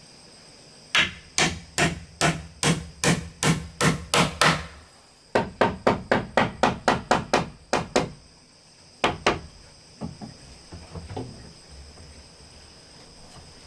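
Hammer blows on wood: a run of about ten strikes, a short pause, then a faster run of quicker blows, two more strikes and a few softer knocks. A steady high insect drone runs underneath.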